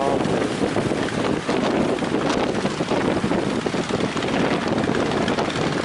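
Strong coastal wind buffeting the microphone over the steady rush of waves.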